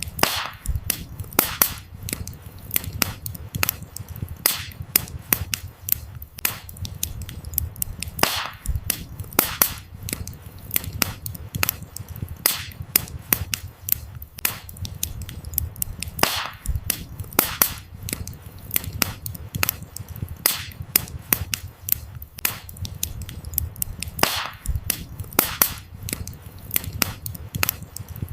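Wood campfire burning: firewood crackling with frequent irregular snaps and pops, a few much louder than the rest, over a low steady rumble of the flames.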